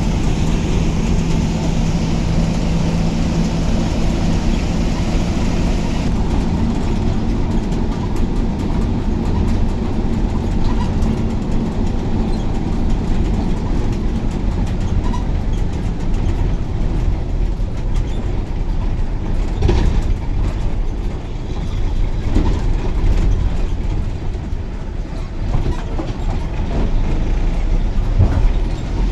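KSRTC bus running along the road, heard from inside the cabin: a steady low rumble of engine and tyres with rattling. A steady engine hum drops away about six seconds in.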